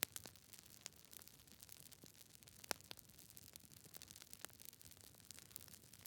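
Campfire crackling quietly: irregular sharp pops and snaps over a faint hiss, the loudest snap at the very start and another about two and a half seconds in.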